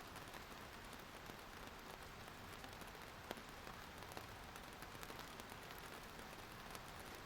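Faint, steady rainfall hissing evenly, with scattered individual drop ticks and one sharper drop about three seconds in.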